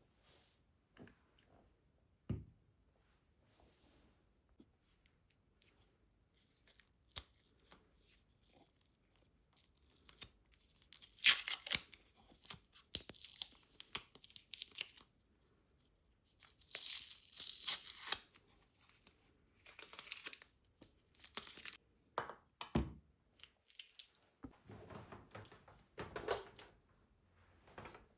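Tearing and crinkling, in two longer bursts around the middle, among scattered light clicks and knocks.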